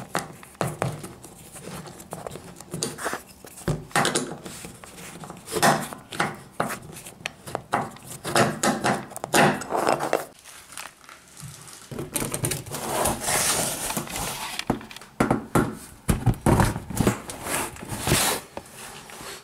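Irregular clicks, knocks and scraping rustles of hands working at the underside of a washing machine, unscrewing and pulling off the bottom panel to get at the drain pump.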